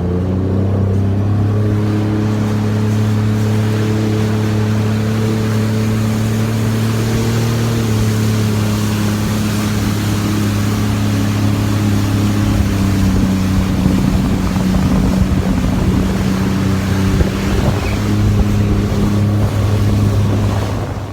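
Supercharged engine of a Sea-Doo GTR 230 jet ski running at a steady cruise, with water and wind rushing past. The drone dips slightly in pitch about eight seconds in and again a few seconds later.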